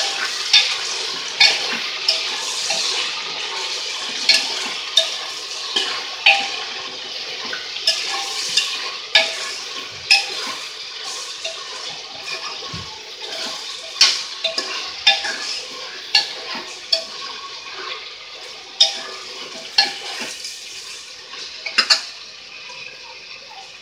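Chopped vegetables frying in hot oil in a pressure cooker, sizzling steadily while a metal ladle stirs them, clinking and scraping against the pot about once every second. The sizzle slowly fades toward the end.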